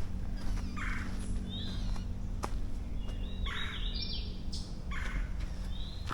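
Birds calling: three harsh, raspy calls mixed with short downward-sliding chirps, over a steady low rumble.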